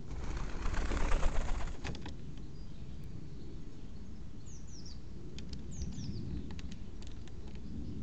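A small bird's wings flapping close by for about a second and a half near the start, then a few short, high, falling chirps from small garden birds about halfway through, over a steady low background rumble.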